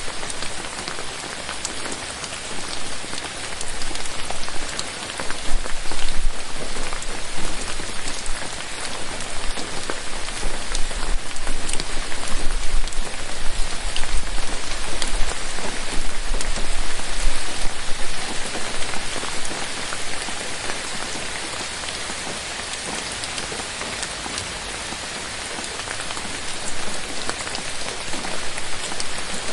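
Steady rain falling on forest foliage, a dense hiss full of fine drop patter, heavier through the middle and easing off in the last third.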